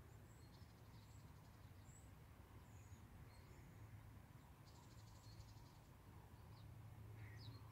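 Near silence: faint, scattered high bird chirps over a low steady hum.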